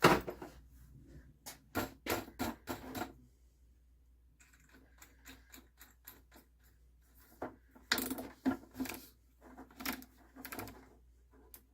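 Rapid clattering knocks and clicks of wooden parts and hand tools being handled on a workbench, in two busy bursts with a quieter stretch between them.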